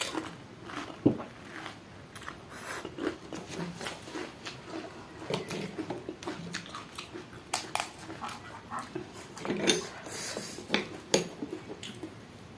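Close-up eating of pani puri: crisp puri shells cracking and wet chewing in many short crackles, with occasional clinks of a plate or spoon.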